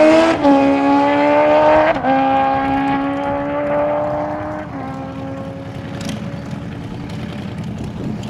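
Suzuki Hayabusa's stock inline-four engine at full throttle on a drag-strip pass, pitch climbing in each gear and dropping sharply at three foot-shifted upshifts, about half a second, two seconds and nearly five seconds in. It fades as the bike pulls away, ending as a faint, steady distant tone.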